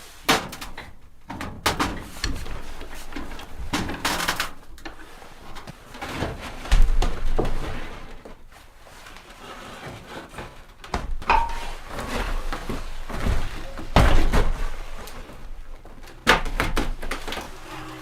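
A series of irregular wooden knocks and thuds with scraping between them, the loudest about 7 and 14 seconds in, in a small room.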